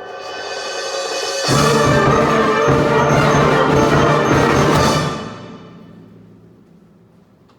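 Wind band with timpani building into a loud, full closing chord held about three and a half seconds, then released, leaving it to fade out in the hall's reverberation.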